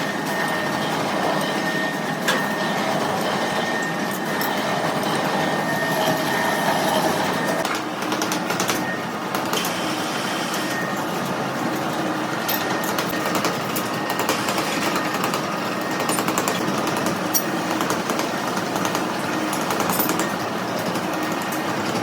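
Steady mechanical din of heavy machinery running, with a faint steady whine for the first several seconds and scattered clicks and knocks.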